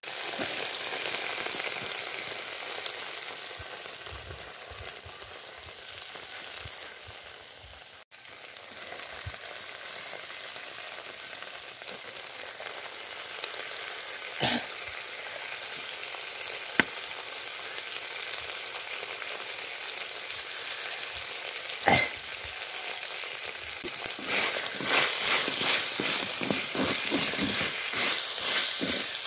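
Chicken pieces sizzling steadily in hot oil in an aluminium kadai, with a few sharp ticks. Near the end the sizzle grows louder as a wooden spatula scrapes and stirs the pieces around the pan.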